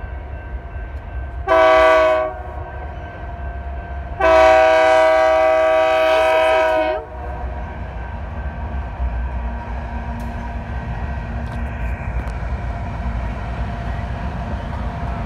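Locomotive air horn of BNSF executive train 9602 sounding a multi-note chord, first a short blast and then a long one of about three seconds. After the horn the steady low rumble of the passing train carries on.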